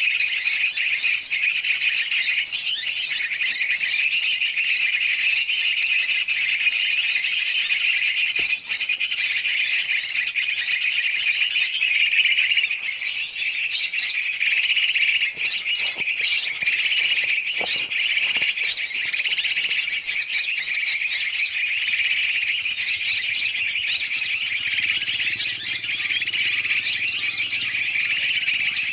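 Bird-lure recording of many large and small birds chattering and chirping at once, a dense, unbroken, noisy chorus of overlapping high calls, used to draw wild birds in.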